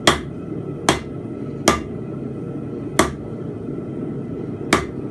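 Hand hammer striking hot steel bar stock on an anvil while forging a fence peg: five separate blows at uneven intervals, with a steady low rush underneath.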